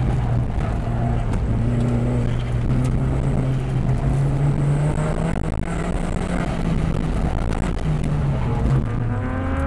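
VW GTI engine working hard through an autocross course, heard from inside the cabin over road noise. Its pitch rises and falls with the throttle and drops away near the end as the car slows.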